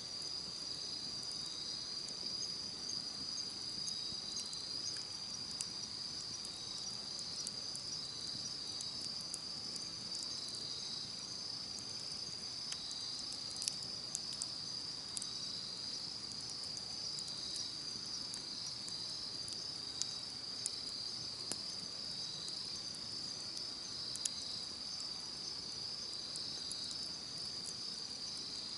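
Insects trilling steadily in a high, continuous chorus, with a second call pulsing every second or two beneath it. A campfire crackles throughout in scattered light clicks, with a few sharper pops.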